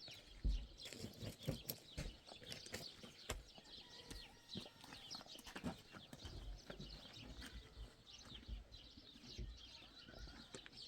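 Small birds chirping over and over, with scattered soft low knocks.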